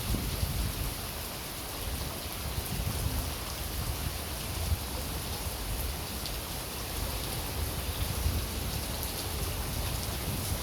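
Heavy rain pouring down steadily, with a rumble of gusting wind or water on the microphone underneath and scattered drops pattering sharply.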